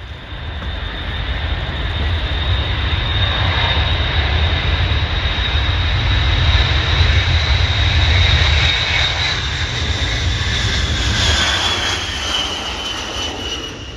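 A fixed-wing aircraft flying past: a deep engine rumble with a high steady whine builds over the first few seconds, peaks about halfway and fades, the whine dropping slightly in pitch near the end.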